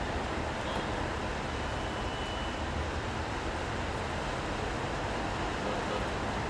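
Steady city street ambience: traffic noise in the rain, an even wash with no single vehicle standing out. A faint high tone sounds briefly about a second and a half in.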